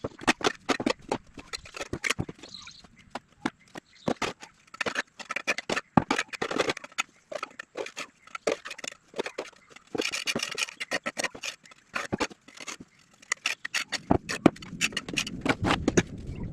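A rapid, irregular series of knocks, clicks and scrapes, with a low rumble joining in near the end.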